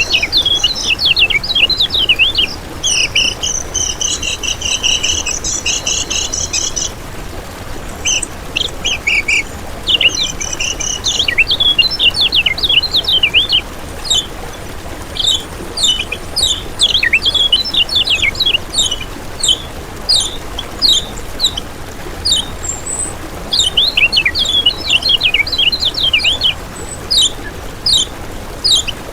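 Kecial kuning (a white-eye) singing: rapid runs of high, quick down-slurred chirps and twitters with short pauses between phrases. A steady high insect-like buzz runs under the song for the first seven seconds or so.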